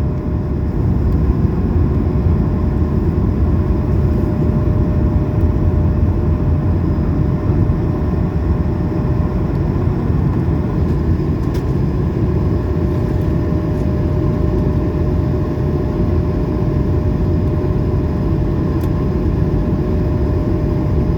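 Cabin noise of an Airbus A220 under power after takeoff: a steady, loud rumble of its Pratt & Whitney PW1500G geared turbofans and rushing air, with a faint steady whine over it.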